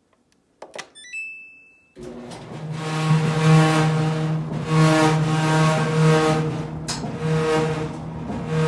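A Samsung DV42H5200GW clothes dryer gives a click and a short beep, then starts up about two seconds in. From then on it makes a loud, steady hum with many overtones that swells and fades in waves. This is the sudden abnormal noise the owner hears with barely any clothes in the drum, and its cause is unknown.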